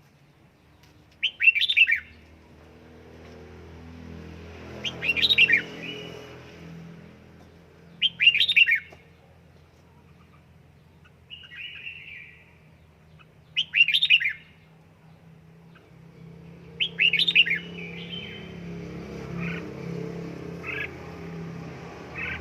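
Red-whiskered bulbul (chào mào) singing short, loud, warbled phrases about every three to four seconds, with softer single notes near the end, over a low steady hum.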